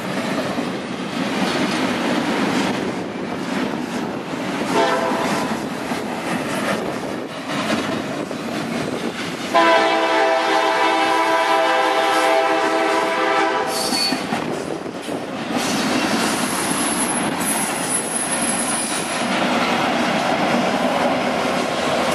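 Double-stack intermodal freight cars rolling past with steady wheel-on-rail rumble and clatter. A locomotive air horn sounds faintly about five seconds in, then blows one long, loud blast from about ten seconds in, lasting some four seconds; this is the approaching CSX SD70MAC leading the next train. A thin, high wheel squeal follows briefly near the end.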